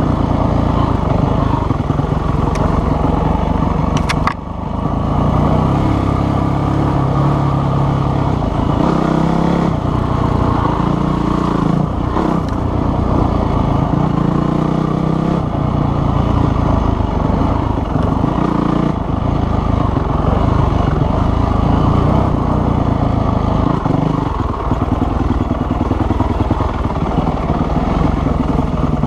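Dirt bike engine running under way, its note rising and falling as the throttle changes, with a short dip about four seconds in.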